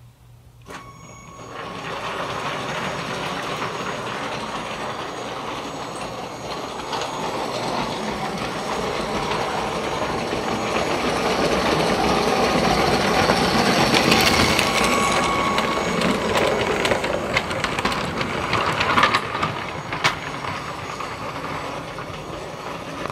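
A train running past: a steady rushing rattle that builds from about a second in, is loudest around fourteen seconds in, then eases off, with a few sharp clicks near the end.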